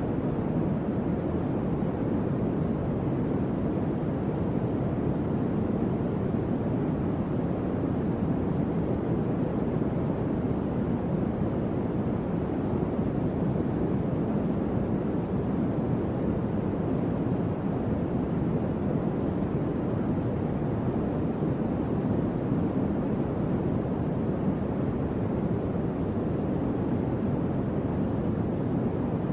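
Electric fan running steadily: an even, low whooshing noise of moving air with no change in speed.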